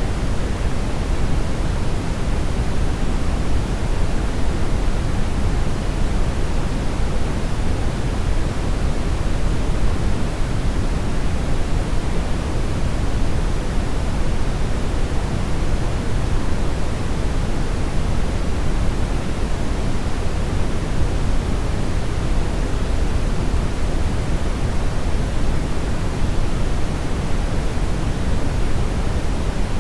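Brown noise: a steady, even rushing hiss, heaviest in the bass and thinning toward the treble, with no changes or events.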